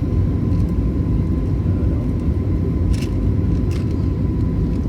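Airliner cabin noise: a steady low rumble of engines and airflow with a thin steady whine running through it, and a couple of faint ticks about three seconds in.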